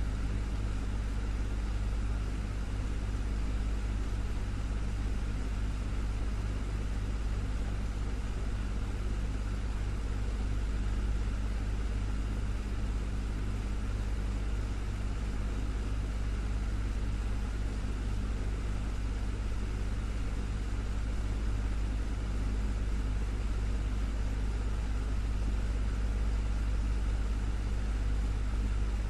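Desktop fan running steadily: an even rush of air over a strong low hum, unchanging throughout.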